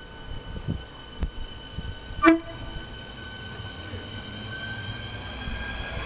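Electric multiple unit train: a few knocks, then one very short, loud horn blip about two seconds in, followed by an electric traction whine that rises in pitch and grows louder as the train draws in.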